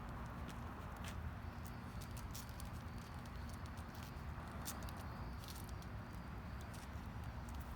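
Footsteps during a dog walk: irregular light ticks and scuffs over a steady low rumble.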